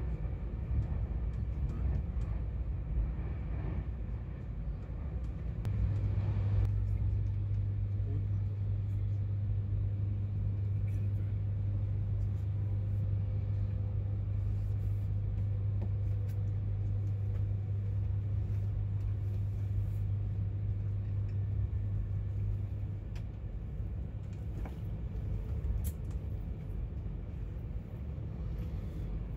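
Steady low rumble of an Avanti West Coast intercity train running along the track, heard from inside the carriage. A low steady hum joins in about six seconds in and stops about two thirds of the way through, with a few faint clicks.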